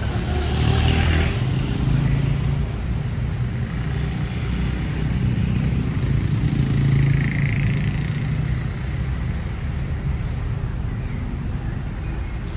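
Street traffic: motor vehicle engines running and passing close by, with a hissing surge about a second in.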